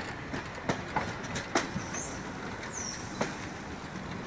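Railway coaches and track renewal machines rolling past, their wheels knocking over rail joints at uneven intervals above a steady rumble, with two brief high squeaks near the middle.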